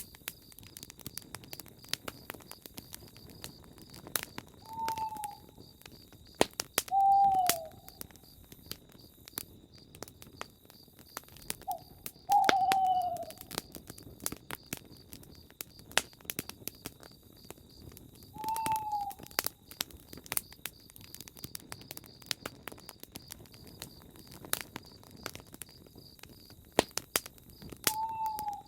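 An owl hooting about five times, short hoots each dipping slightly in pitch and spaced several seconds apart, over the crackle and pop of a campfire and a steady chirring of crickets.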